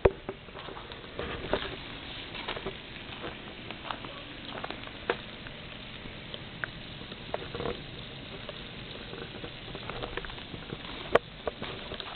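Footsteps crunching and patting through snow with irregular small crackles and clicks, and one sharp click near the end.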